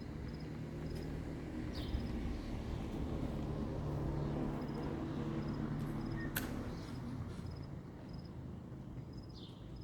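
Low steady hum with faint, short high-pitched chirps repeating every second or so, like insects. A couple of quick falling chirps sound, and one sharp click comes about six seconds in.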